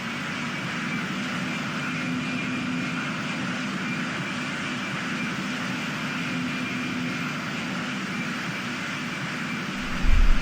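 An airplane's engines running steadily: an even rush with a faint, steady high whine. Near the end a low buffeting of wind on the microphone comes in.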